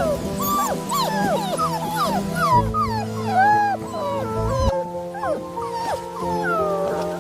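Beagle puppies whimpering and yelping: many short, high, wavering cries, several a second and overlapping, over background music with steady held notes.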